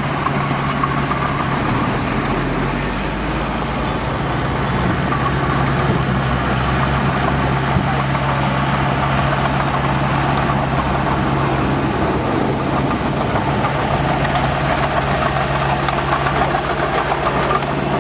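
Heavy machinery diesel engine running steadily, with an even, unchanging drone.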